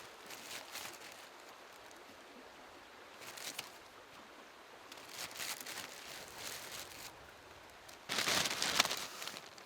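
Irregular crunching and rustling noises in a few separate bursts, the loudest lasting about a second near the end, over a faint steady hiss.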